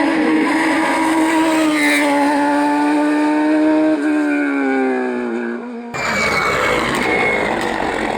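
Race car engine running at high revs, its pitch holding steady and then dropping from about four seconds in. About six seconds in it cuts abruptly to a different, noisier engine sound.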